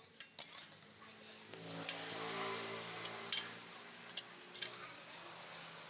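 Metal parts and tools clinking and tapping as the motorcycle clutch is worked on, in several separate sharp clinks. A steady hum with a hiss rises in the middle and fades out.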